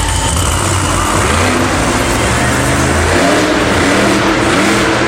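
Monster truck's supercharged V8 engine revving, its pitch rising and falling repeatedly from about a second and a half in.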